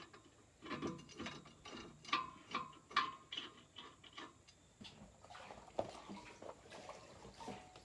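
Irregular metallic clicks and clanks of hand tools worked on a backhoe wheel, several ringing briefly.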